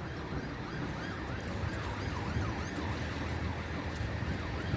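A distant emergency-vehicle siren in a fast rising-and-falling yelp, over a steady low rumble.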